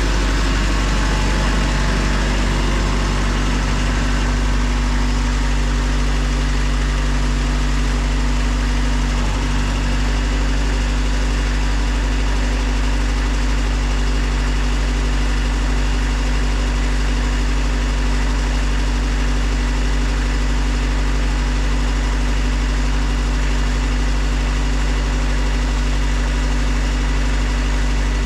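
Diesel tractor engine idling steadily at an even speed while it warms up in the cold.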